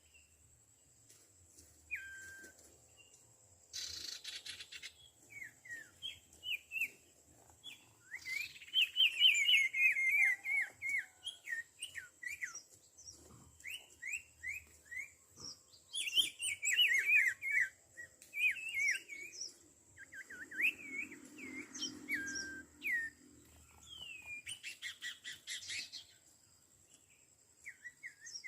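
Small songbirds calling in quick repeated chirps that sweep downward in pitch, some in fast runs and loudest about a third of the way in and again past the middle. There are two short raspy bursts, one early and one near the end.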